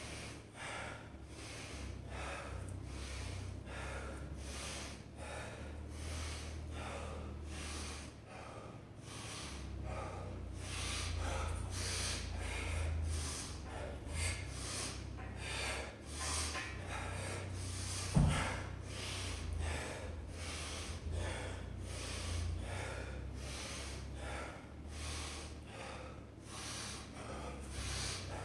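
A person breathing hard and fast, in and out about twice a second, as after a set of deadlifts and chin-ups, over a steady low rumble. A single sharp knock comes about two-thirds of the way through.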